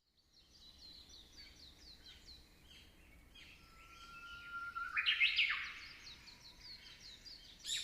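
Small birds chirping with quick repeated high chirps, faint at first and louder for a moment around the middle, where one long whistled note rises and then breaks off.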